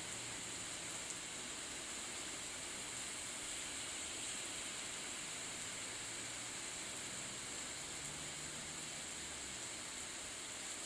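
Steady rain shower falling, an even, continuous hiss with no breaks, over a faint low hum.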